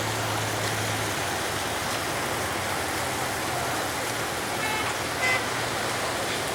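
Steady rushing outdoor background noise with no clear single source. A low hum fades out about a second in, and a brief high chirp comes about five seconds in.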